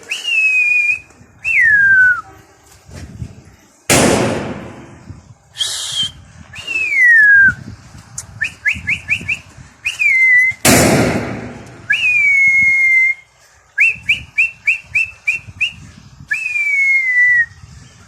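A pigeon keeper whistling to drive his flock up into flight. The whistles come again and again: long notes sliding down in pitch alternate with quick runs of about five short chirps a second. Two loud rushing noise bursts fall about 4 s and 11 s in.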